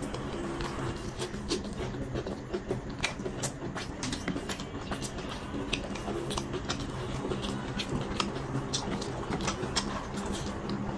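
Close-miked eating sounds: wet chewing and lip-smacking on mouthfuls of chicken biryani eaten by hand, a steady run of small, irregular mouth clicks over a faint low steady hum.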